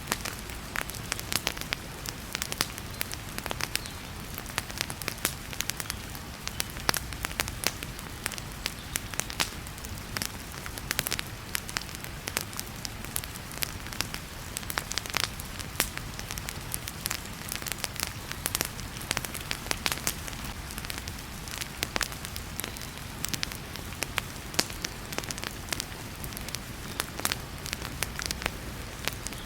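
Wood fire crackling and popping in a fireplace, with many irregular sharp pops, over a steady hiss of heavy rain.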